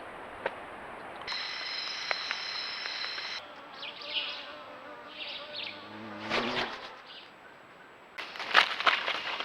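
Outdoor wildlife ambience that changes abruptly several times. It begins with a steady high insect buzz, then short chirps and a brief pitched call, and ends with rustling and clicks.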